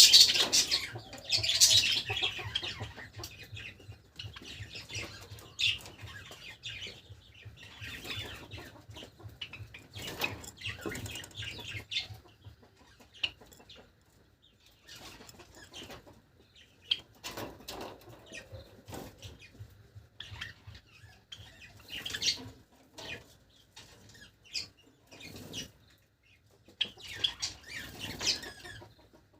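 Pet Java sparrows fluttering their wings in irregular short bursts, with occasional short calls. The loudest flurry comes at the start, with brief lulls about midway and a few seconds before the end.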